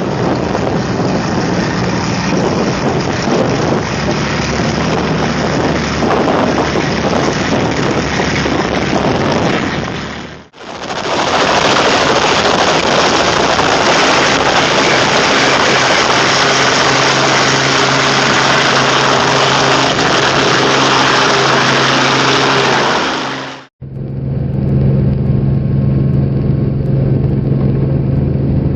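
Helicopter engine and rotor running loud and steady, in three edited pieces that cut off abruptly about ten seconds in and again near the end. The last piece is duller, with a strong low hum.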